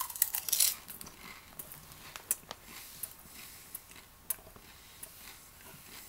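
Person chewing a mouthful of popcorn: a quick run of crunches in the first second, then sparser single crunches as the chewing goes on.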